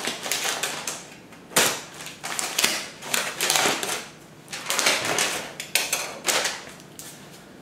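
Packaging being pulled off a delivered beehive by hand: irregular bursts of crinkling and rustling with sharp clicks.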